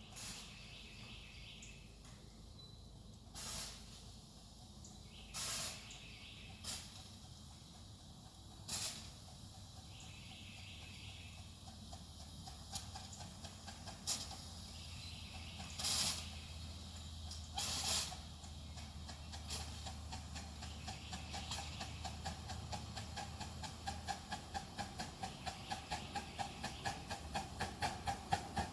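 5-inch-gauge live-steam locomotive: several short hisses of steam, then exhaust beats that begin about two-thirds of the way in and quicken to about three a second by the end as the engine gets under way.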